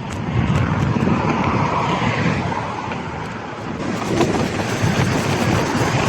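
Gravel bike's tyres rolling over the road surface, with wind rushing over the microphone as it rides along.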